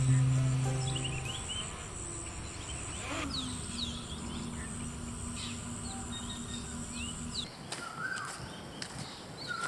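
Background music fading out, then outdoor ambience: a steady high insect drone with birds chirping. Near the end the ambience changes, with a few short rising bird calls and light clicks.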